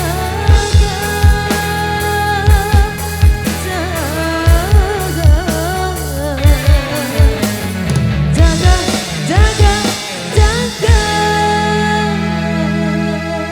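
Live street dangdut band playing: deep hand-drum strokes in a quick koplo groove under a wavering, vibrato-laden melody line. About eleven seconds in the drumming stops and a held chord rings on.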